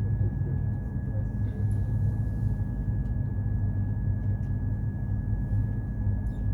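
Steady low rumble of an Indian Railways train, with a thin constant high whine over it.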